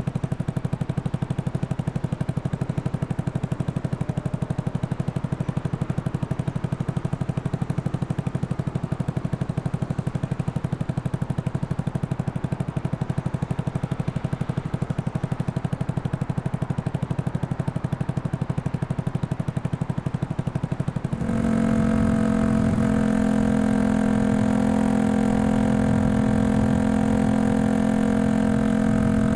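Single-cylinder engine of a Yamaha XSR155 bored up to 183cc, breathing through a Norifumi full exhaust, running with a low, even pulsing beat. About three-quarters of the way through, the sound changes abruptly to a steadier, higher-pitched exhaust drone.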